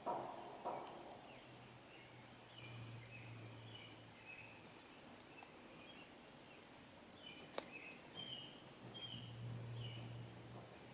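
Faint outdoor ambience: birds chirping in short, sliding notes, over a low steady hum, with one sharp click about seven and a half seconds in.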